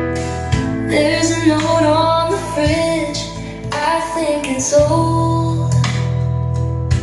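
A song with a female voice singing over guitar and bass, played back through a PSB Image 5B bookshelf loudspeaker. The voice comes in about a second in and drops out near six seconds, leaving the instruments.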